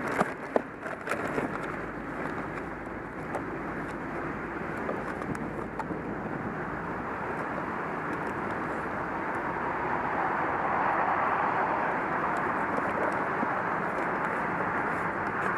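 Steady vehicle and road noise, a continuous rushing with no clear engine note, swelling about ten seconds in.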